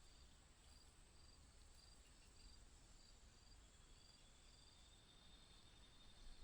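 Near silence: faint outdoor background with a soft, high chirp repeating evenly about every half second, like a distant insect. It fades out a little past the middle.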